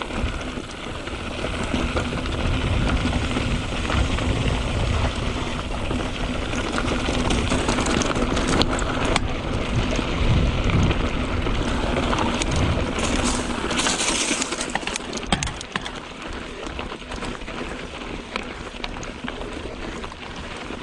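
Mountain bike ridden over a dirt trail: tyres crunching on dirt and rock and the bike rattling, over a heavy low rumble. Louder through the first part, quieter over the last few seconds.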